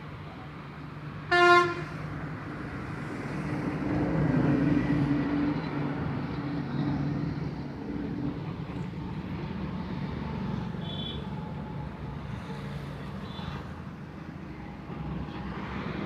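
A tractor engine running steadily, with one short horn toot about a second and a half in.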